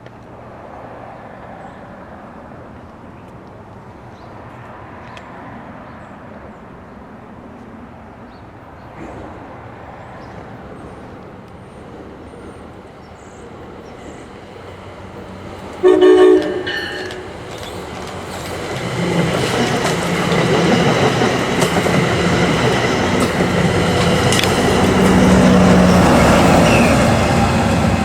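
Locomotive horn sounds one short blast about 16 seconds in, then the train approaches and passes, its engine and wheels on the rails growing steadily louder through the last ten seconds.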